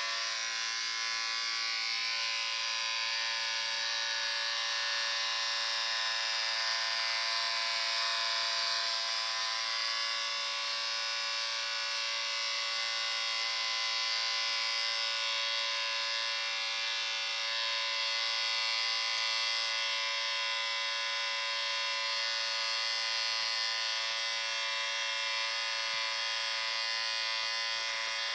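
Electric shaver running steadily: a continuous, even buzz with a high hiss that does not change in pitch or level.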